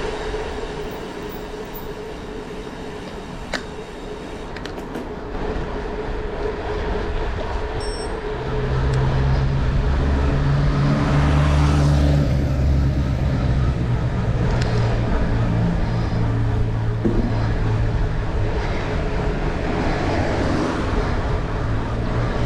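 A train passing, with a steady low engine hum that comes in and grows louder about eight seconds in.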